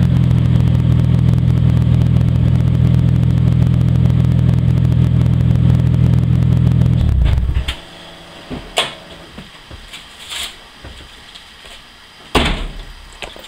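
Toyota 7M-GTE turbocharged inline-six with a 3-inch turbo-back exhaust, loud and idling at a steady pitch, then shut off about seven seconds in. A few faint clicks and knocks follow.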